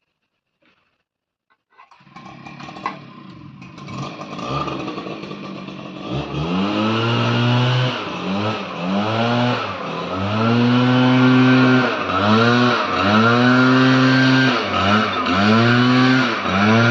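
Small petrol engine of a lawn mower starting up about two seconds in and running loudly, its pitch dipping and recovering again and again.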